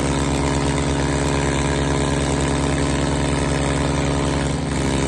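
Tractor's diesel engine running steadily with an even, rapid pulse, briefly dipping in level near the end.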